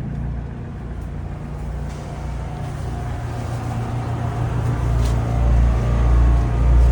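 A heavy truck's diesel engine running with a steady low rumble, getting louder over the second half with a few pulsing swells near the end.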